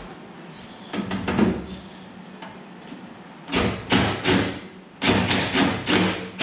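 Hand tools clattering and knocking, in quick clusters of sharp metallic clanks about a second in and again through the second half.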